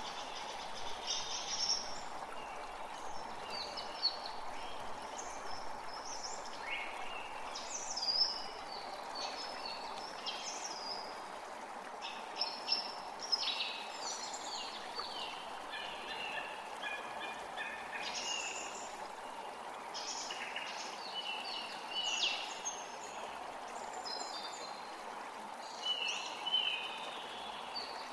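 Forest creek running steadily, with several songbirds singing and chirping over it in short, frequent phrases.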